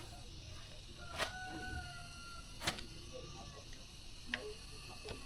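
Four sharp, light clicks, a second or more apart, over a faint hum, with a faint thin whistling tone for about a second after the first click.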